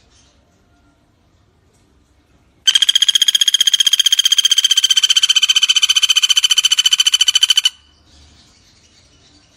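Common flameback woodpecker (pelatuk bawang) calling: one rapid rattling trill of about twelve notes a second, lasting about five seconds and ending abruptly.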